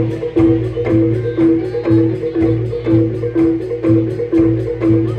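Traditional percussion music. A mallet-struck tuned tone repeats about twice a second over a steady low drum beat.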